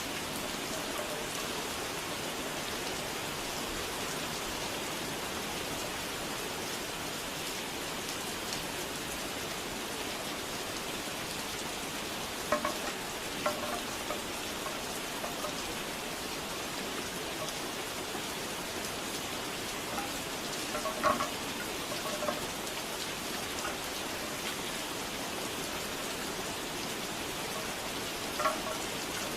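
Steady rain falling, with a bamboo wind chime clacking now and then: short clusters of hollow knocks about twelve seconds in, around twenty seconds, and again near the end.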